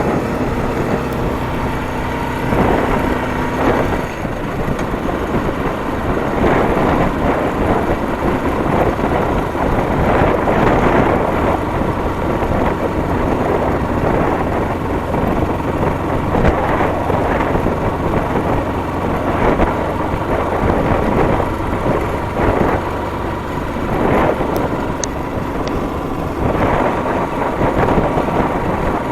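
Motorcycle engine running steadily while riding, mixed with heavy wind rumble on the microphone.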